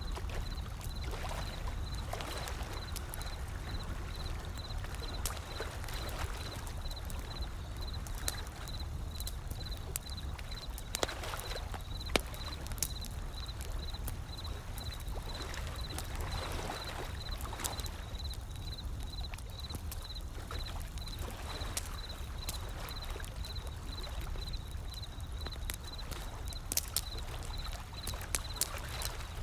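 Wood fire crackling, with scattered sharp pops, over a low steady rumble and soft washes of gently rolling sea waves.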